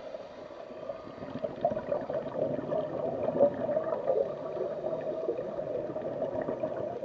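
Underwater bubbling and gurgling from a scuba diver's regulator exhaust, a continuous irregular burble with a few louder bubbles.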